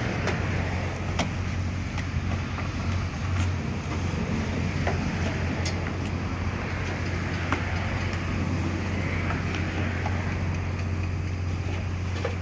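A motor runs with a steady low hum under an even hiss of water spraying, with scattered light ticks, during high-pressure washing of a truck.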